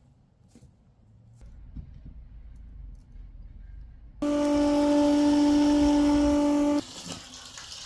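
Electric macerator pump on an RV holding-tank drain, its motor switched on about four seconds in with a steady, loud whine, then cut off sharply two and a half seconds later while emptying the camper's tank.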